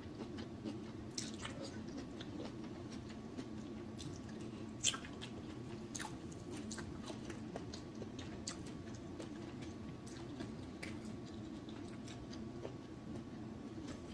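Close-miked mouth sounds of eating: wet chewing and lip smacks made up of many small irregular clicks, with one sharper smack about five seconds in.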